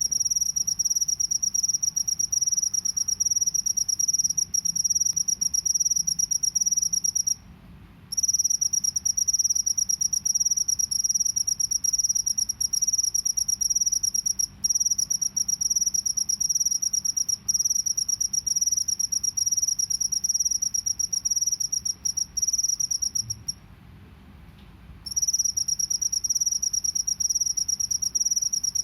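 Field cricket (jangkrik sawah) trilling: a high, fast, drill-like trill that runs on and on, breaking off twice for a second or so, about a quarter of the way in and again late on.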